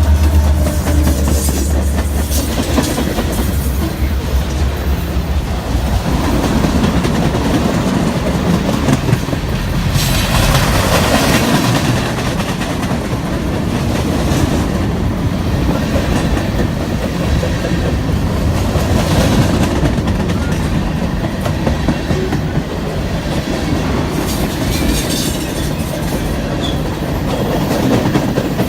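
Train passing close by: a deep engine drone in the first few seconds, then the steady clatter of railcar wheels over the rail joints.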